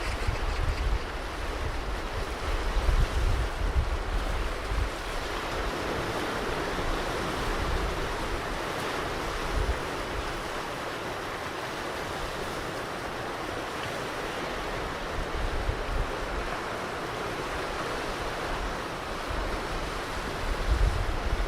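Ocean surf washing on a beach as a steady rushing wash, with wind buffeting the microphone as low rumbles in the first few seconds and again near the end.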